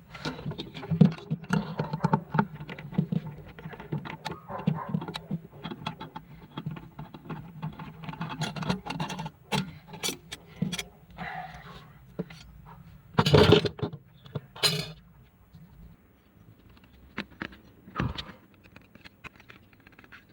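Handling noise from work on small metal parts: a stream of clicks, rattles and scrapes, with a louder clatter about thirteen seconds in and another shortly after, then a single knock near the end.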